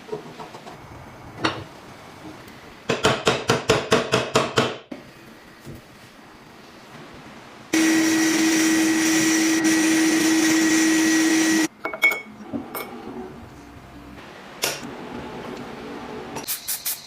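Workshop tool sounds: a quick run of about ten hammer strikes, then an electric power tool's motor running steadily for about four seconds and cutting off suddenly, followed by scattered knocks and clicks.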